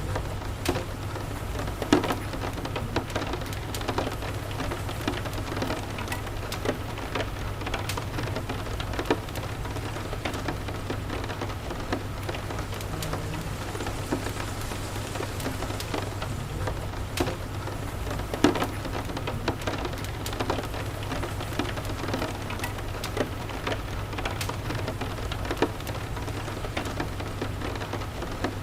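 Steady rain with irregular sharp pops and crackles from a wood fire in a fireplace, over a low steady rumble.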